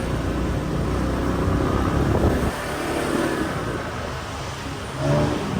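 Street traffic heard from a moving motorbike: engines of motorbikes and cars running steadily, with a deep rumble that drops away about two and a half seconds in and an engine note rising near the end.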